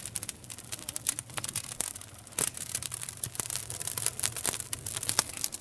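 Wood campfire crackling and popping: a steady run of sharp pops and snaps over a soft hiss, with a few louder pops.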